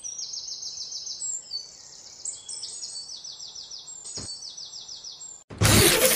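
Small birds chirping in quick, high trills of repeated falling notes, with a single click about four seconds in. Near the end a sudden loud rushing noise cuts in over them.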